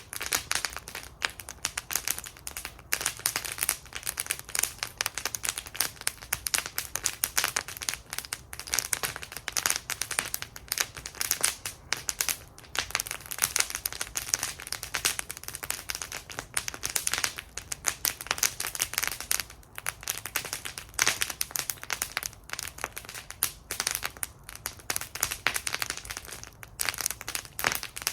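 Wood fire burning in a fire bowl, crackling and popping steadily with many small irregular snaps and a low soft rumble of the flames underneath.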